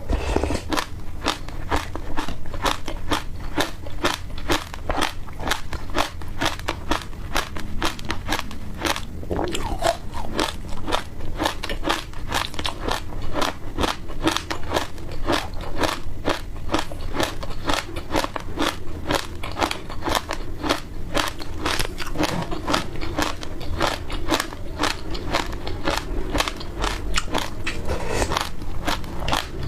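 Close-miked crunching and chewing of dry passion fruit seeds: a dense, steady run of sharp crackling bites.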